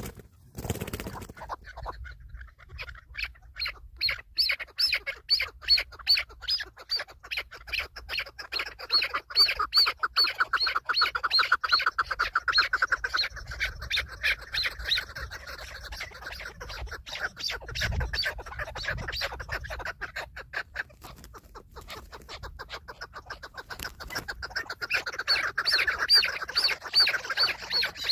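Chukar partridge calling: a long run of rapid, repeated clucking notes, several a second. The calls thin out briefly about three quarters of the way through, then build again near the end. There is a low thump about two-thirds of the way in.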